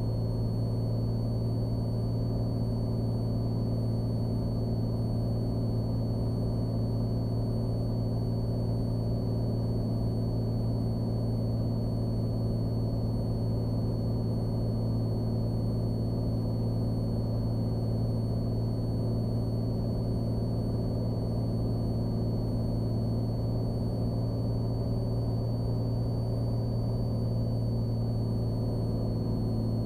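Cessna Skylane's single piston engine and propeller droning steadily in the cockpit at an even power setting, with a faint steady high whine.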